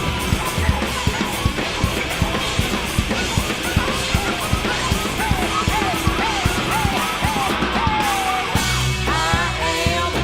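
Loud live rock music: a drum kit hit fast and hard under guitar and bass, with a run of short, repeated bending notes in the middle. Near the end the music changes, with held low notes and a voice coming in.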